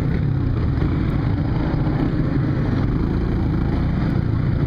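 Small motorcycle engine running steadily, heard from the rider's seat as an even low rumble.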